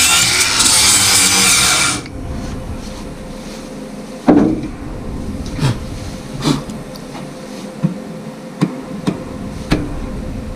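A loud, steady noise stops suddenly about two seconds in. After it come about seven sharp knocks from tool work on metal, irregularly spaced, each with a short ring.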